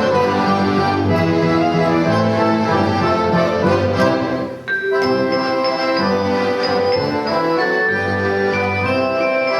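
An accordion orchestra playing Christmas music: full sustained chords, with a brief break about halfway through before the playing resumes.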